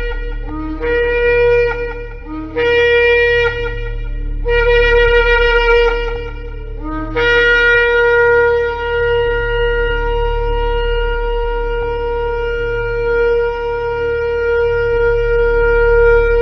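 Shofar blown in a run of short blasts, each stepping up from a low note to a higher one, then one long blast held for about nine seconds.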